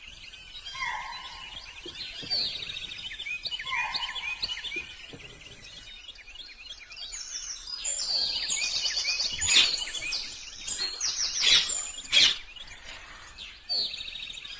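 Several birds calling and singing together: repeated falling whistled notes and fast chattering trills, densest in the second half. A sharp click sounds about twelve seconds in.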